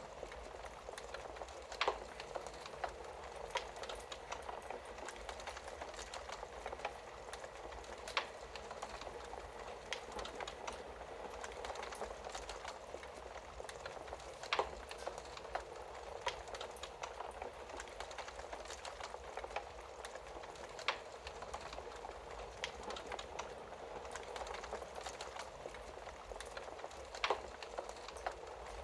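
Wood fire crackling in a fireplace: a steady soft hiss full of small crackles, with a louder sharp pop about every six seconds.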